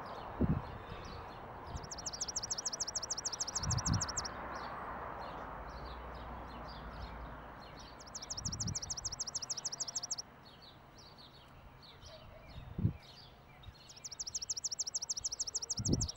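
Songbirds in a garden: one bird repeats a fast, even trill of high notes three times, each lasting about two seconds, over scattered short chirps from other birds. A few dull low thumps fall in between.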